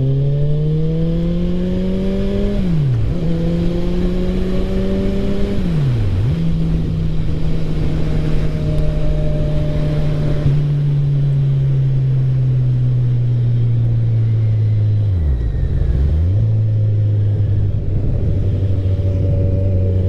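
Liter-bike motorcycle engine accelerating, its pitch climbing and then dropping sharply at upshifts about two and a half and six seconds in, then running steadily, with a quick dip and recovery about fifteen seconds in. Steady wind rush runs underneath.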